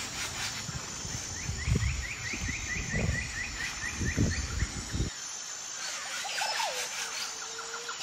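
Birds calling in a tree: a rapid run of short, evenly repeated chirping notes, then a single call that falls in pitch. Low rumbling thumps lie under them and stop abruptly about five seconds in.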